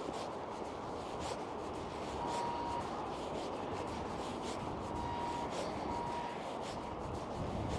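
Footsteps on pavement at a steady walking pace, about two steps a second, over a steady rush of passing road traffic. A short, steady high tone sounds three times in the middle.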